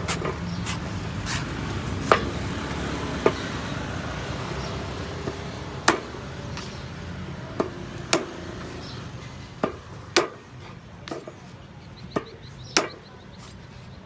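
A blade chopping into a small coconut: about ten sharp strikes at uneven intervals, over a low steady hum.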